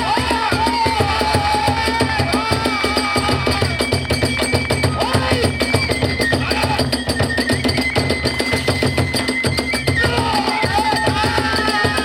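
Kagura hayashi music played fast: a rapid, steady stream of drum beats and small hand-cymbal clashes under a Japanese bamboo flute melody that wanders, then holds long high notes in the middle.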